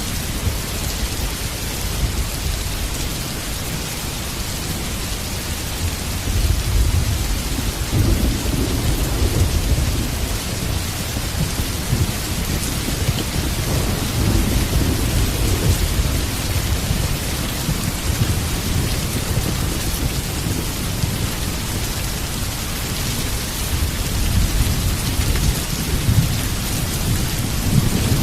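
Heavy rain falling steadily with rolling thunder rumbling underneath, swelling about six seconds in and again around the middle and near the end.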